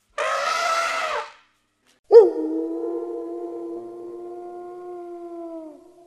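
An elephant trumpets once for about a second, then a wolf gives one long howl. The howl starts sharply, holds a steady pitch for about three and a half seconds, and drops slightly as it fades near the end.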